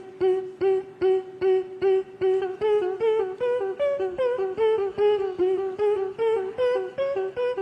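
A cappella vocal group singing a short staccato note over and over, about two and a half times a second on one steady pitch. From about two seconds in, a higher voice line rises and falls over the pulse.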